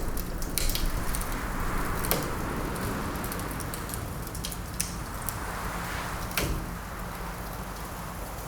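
Wood fire crackling, with scattered sharp pops, the strongest about two seconds and six seconds in, over a steady rushing wind that swells and eases.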